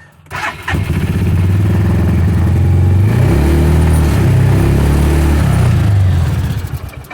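UTV engine started by jumping its starter straight from the battery: a brief crank, then it catches about a second in and runs with the throttle open, its pitch shifting up and down, before falling away near the end.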